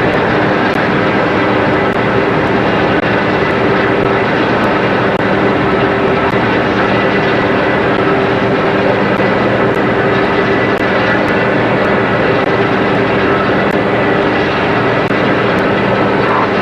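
Boat engine running steadily, a loud, even drone with no change in speed.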